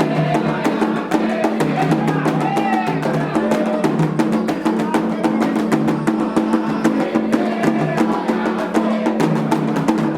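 Candomblé xirê music: drums and sharp percussion strokes keeping a fast, steady rhythm, with voices singing over it.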